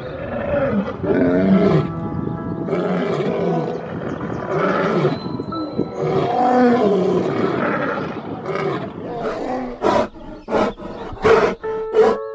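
Lion roaring in a long series of deep, rising-and-falling moaning roars, ending near the end in a run of short, sharp grunts.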